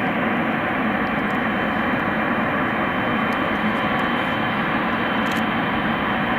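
Boeing 777-300ER's GE90 jet engines running, a steady, even rushing noise that neither rises nor falls.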